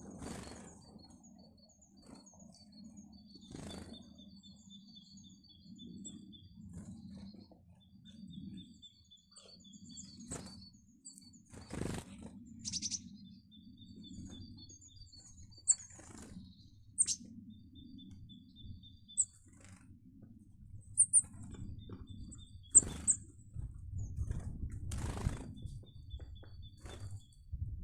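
Small wild birds chirping and calling at a winter feeder: runs of high, thin repeated notes, with a few sharper single calls, and several brief flutters of wings.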